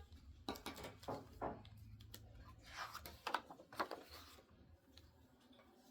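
Faint paper rustling and a few light taps: the pages of a picture book being handled and turned, falling to near silence after about four seconds.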